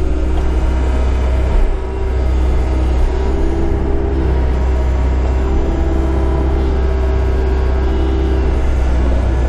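A heavy diesel engine running steadily at a constant speed, with a strong low hum and a slight dip in loudness about two seconds in.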